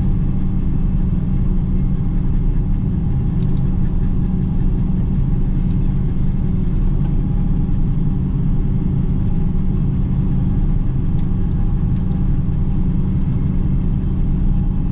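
Self-propelled forage harvester running steadily in corn, a continuous low engine and driveline drone with a few faint ticks.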